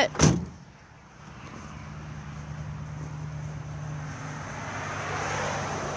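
A single sharp thump near the start, then a steady low hum under a rushing noise that swells and fades again near the end.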